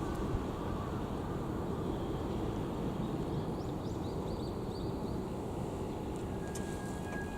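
Steady low rumble of outdoor city background, with a quick run of small bird chirps about halfway through.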